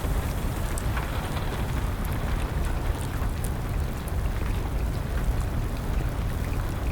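Wood fire crackling, with scattered small pops, over a steady hiss of rain and a low rumble.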